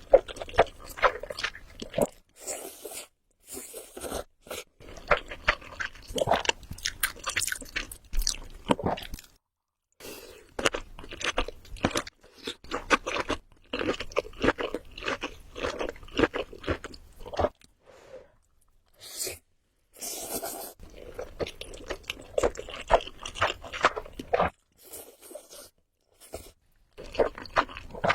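Close-miked eating sounds of a person chewing, with crisp crunches and sharp wet mouth clicks, in runs of a few seconds broken by short silent pauses.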